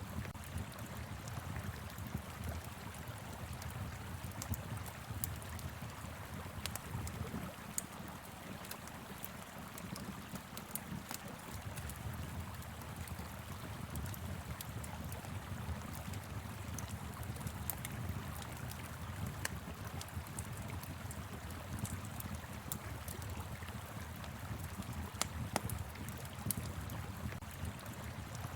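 Wood fire crackling with scattered sharp pops over the steady rush of a flowing river and light wind.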